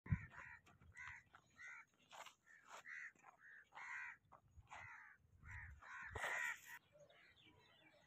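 A bird calling again and again in short, harsh caws, about two a second. A low thump comes at the very start, and a brief rustling burst comes about six seconds in.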